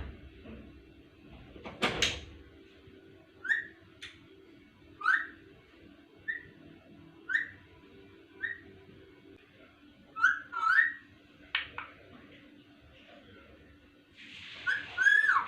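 Ringneck parrot giving short, pitched calls, one every second or so, with a longer, harsher call that falls in pitch near the end. A sharp knock sounds about two seconds in.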